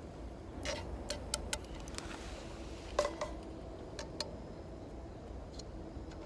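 Wood fire crackling, with sharp, irregular pops and snaps, the loudest about three seconds in.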